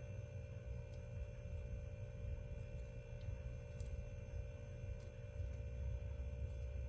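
A steady electrical hum with several constant high tones over it and a few faint, isolated clicks.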